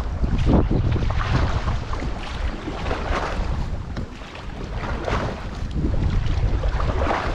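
Wind buffeting the microphone, with a paddle splashing into the water every couple of seconds as a one-person raft is paddled with pry strokes.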